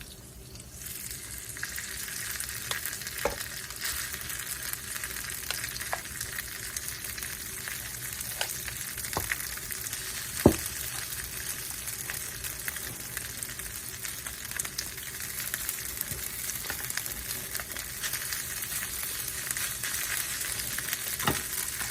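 Garlic and onion sizzling in garlic butter on a hot grill, a steady frying hiss. A few sharp knocks break in, the loudest about ten seconds in.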